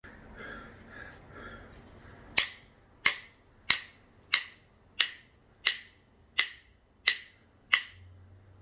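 Fingers snapping a steady beat, nine sharp snaps at about one and a half per second, starting a couple of seconds in.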